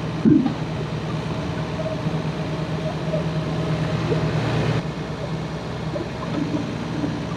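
Excavator's diesel engine running steadily with a low hum, with a brief louder sound just after the start and a louder, noisier stretch a few seconds in.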